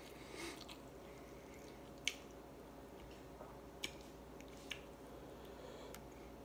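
Faint eating sounds: chewing and wet squishing of rice eaten by hand, with a few short sharp clicks spread through.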